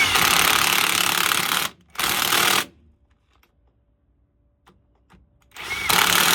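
Impact gun running driveshaft yoke bolts in: a long run of about a second and a half, a short burst, then quiet for about three seconds before another run of over a second near the end.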